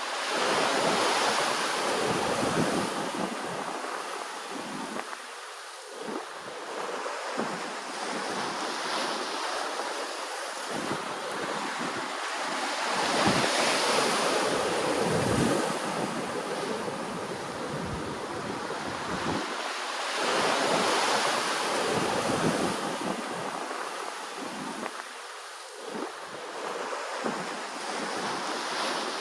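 Ocean waves washing in, a steady surf noise that swells and falls away several times, loudest about halfway through.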